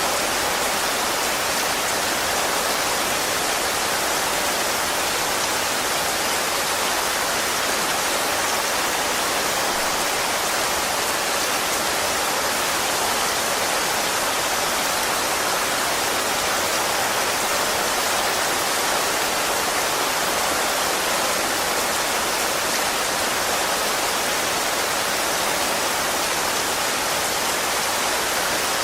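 Steady rainfall, an even hiss of rain with no separate drops standing out.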